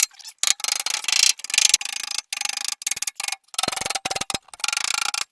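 Rapid run of light hammer blows on a Land Rover Series 2A's aluminium front guard during panel beating. Each strike rings with a metallic tone.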